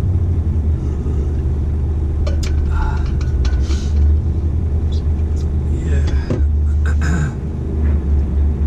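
Scania dump truck's diesel engine running, a steady low drone heard from inside the cab while driving, with a few short clicks and rattles.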